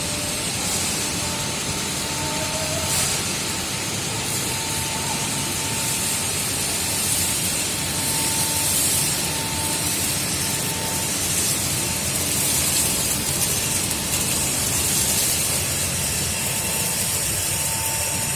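Industrial microwave chili drying machine running steadily: a continuous hiss-like noise from its fans and conveyor, with a faint thin whine that comes and goes.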